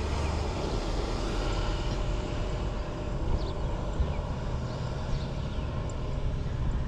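Steady outdoor background rumble and hiss, with a few faint high chirps.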